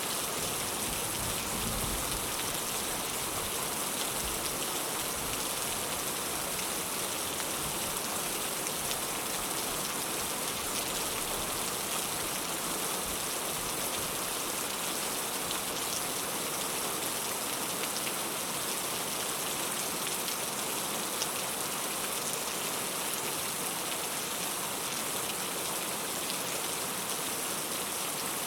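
Heavy rain falling steadily, with scattered drop ticks and a faint low rumble in the first few seconds.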